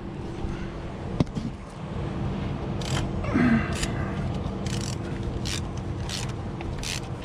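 Hand ratchet clicking in short strokes, roughly one or two a second, starting about three seconds in, after a single sharp click about a second in.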